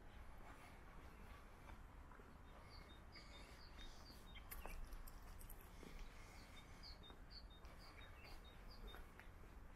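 Faint, short, high bird chirps repeated in quick succession, starting about three seconds in, over a low steady background rumble.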